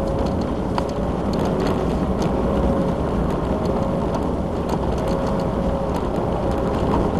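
Mitsubishi Lancer Evolution X's turbocharged four-cylinder engine running steadily at moderate revs as the car corners on packed snow, heard from inside the cabin, with a constant rush of tyre and road noise and scattered sharp ticks.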